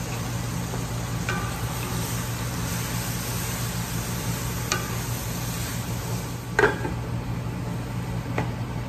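Beef strips and mixed vegetables sizzling in a stainless steel skillet as they are stirred with a wooden spoon, with a few short clinks against the pan, the loudest about two-thirds of the way through.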